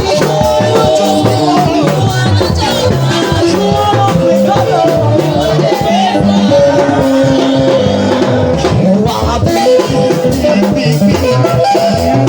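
Live church praise music in an Ibibio medley style: drums and shakers keep a steady beat under a held, pitched melody line.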